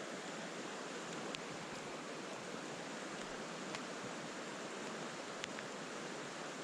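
Mountain stream water rushing steadily, with three faint, sharp clicks spread through.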